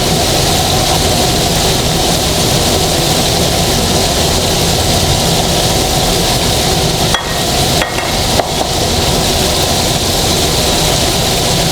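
Flour-coated chicken breast pieces frying in oil, a loud steady sizzle, with three brief dips in level between about seven and eight and a half seconds in.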